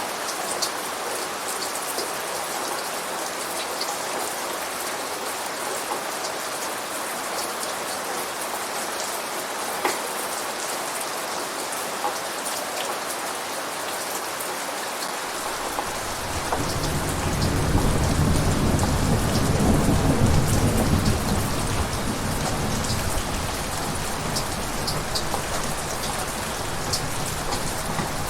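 Steady rain falling, with a low rumble of thunder coming in a little past halfway, swelling for a few seconds and then slowly fading.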